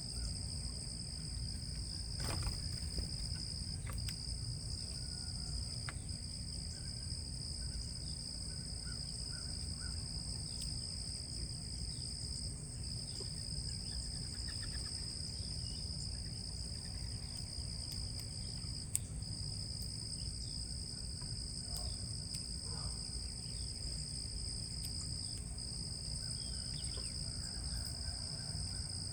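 Outdoor ambience of a steady insect chorus, two continuous high-pitched trills that run unbroken with brief dips, over a low rumble. Faint short bird chirps come and go.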